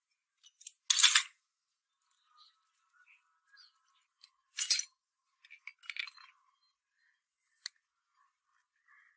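A few short metallic clinks and scrapes of small parts or tools being handled. The loudest come about a second in and just before the middle, followed by a scatter of lighter clicks and a single sharp tick near the end.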